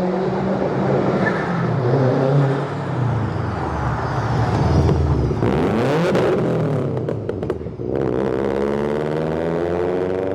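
Cars driving out of a car meet, their engines revving and accelerating away. The first sounds like a Subaru. Near the end one engine's pitch rises steadily as it accelerates.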